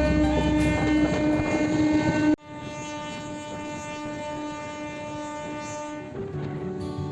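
Passenger train running with a loud low rumble under background music of long held notes. The train sound cuts off suddenly about two and a half seconds in, leaving the quieter held notes, and plucked guitar-like notes begin near the end.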